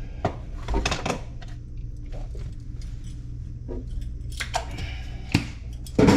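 Small metallic clinks and knocks of plumbing fittings and tools being handled, with a louder knock near the end, over a steady low hum.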